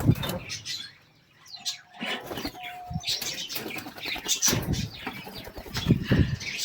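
Caged birds flapping their wings, with scattered rustling, clicks and low knocks, and a brief whistle-like note near the middle.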